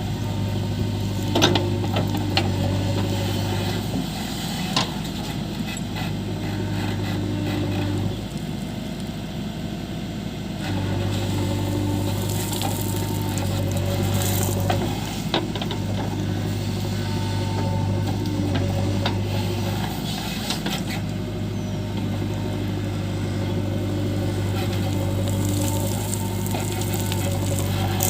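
JCB 3DX backhoe loader's diesel engine running steadily while working, its hum easing off twice, about eight and twenty seconds in. Occasional sharp knocks sound over it.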